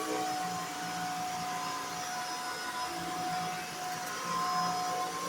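Shark Stratus cordless stick vacuum running steadily: a motor whine over the rush of air. The whine shifts slightly in pitch near the end.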